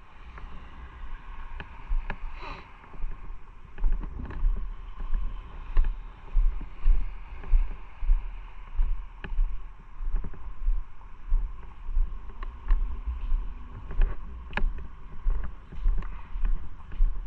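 Motorcycle ride: wind buffeting the microphone in a low rumble that swells about twice a second, with a few sharp ticks.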